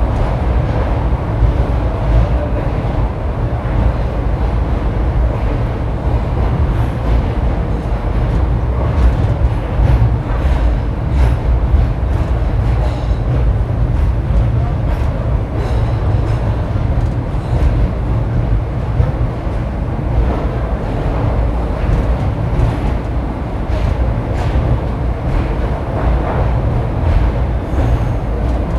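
Passenger train running slowly through a station, heard from on board: a steady low rumble from the coaches with scattered light clicks from the wheels and couplings.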